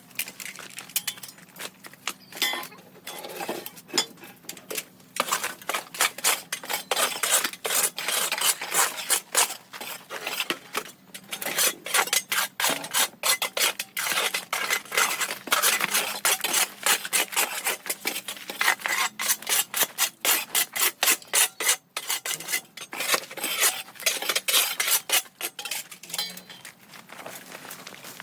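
Rapid, repeated scraping strokes of a stiff brush scrubbing a hard surface, about four strokes a second, with a brief pause partway through.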